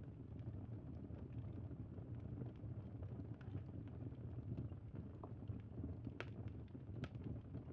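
Campfire burning: a steady low rumble with scattered crackles and pops, a couple of sharper pops about six and seven seconds in.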